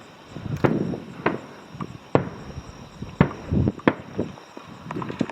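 Fireworks bursting overhead: a string of sharp bangs at irregular intervals, some with a short low rumble after them.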